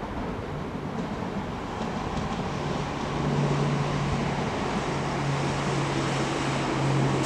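Northern Class 769 bi-mode multiple unit running past, its rumble and wheel noise growing louder as it draws near, with a steady low hum from about two seconds in.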